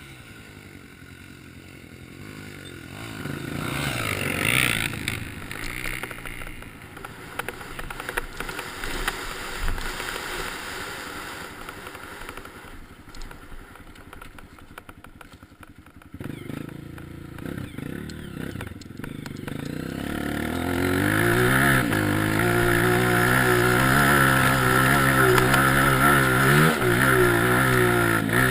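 Off-road trail motorcycle engine running, fainter and uneven at first, louder about two-thirds of the way in. In the last third the engine is revved up and down repeatedly.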